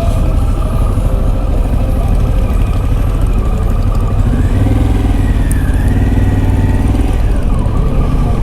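Motorcycle engine running at low speed, its pitch rising about four seconds in as it accelerates, then falling back about three seconds later as it eases off.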